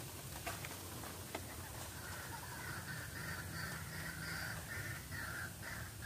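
White-breasted waterhen lure call: a run of harsh, repeated notes at about two to three a second, starting about two seconds in, after a few faint clicks.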